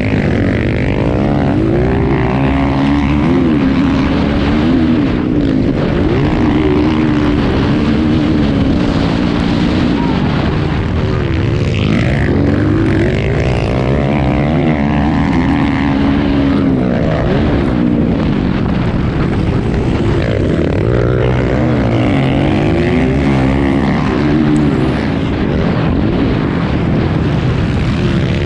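Motocross dirt bike engines revving up and down in quick, repeated swells as the bikes race round the track, several engines overlapping.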